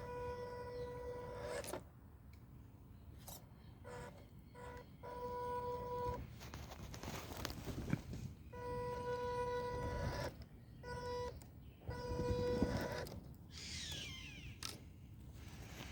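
Small RC crawler's electric drive whining with a steady electronic tone whenever throttle is applied. The whine starts and stops in short pulls of a second or two, with crunching from the tyres and drivetrain between them.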